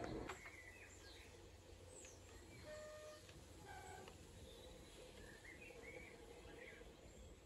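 Near-silent outdoor background with small birds chirping now and then.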